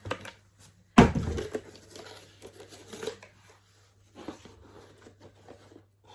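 Cardboard and packing material being torn open and crinkled by hand while unboxing a Funko Pop, starting with a sharp rip about a second in, then irregular scraping and crackling.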